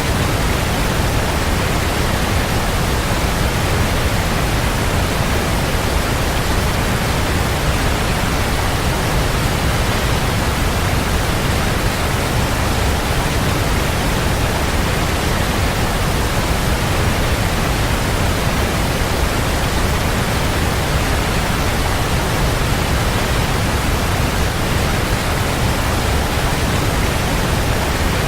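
Waterfall: water pouring and crashing in a steady, dense rush, heaviest in the low end.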